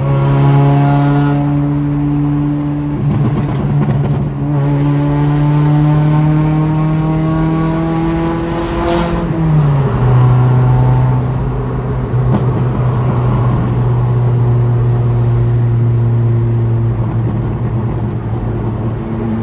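Proton Waja's Mitsubishi 4G18 four-cylinder engine running through a custom full exhaust, its revs rising slowly and steadily for about nine seconds. About nine and a half seconds in the revs drop sharply, then the engine holds steady at a lower, even note.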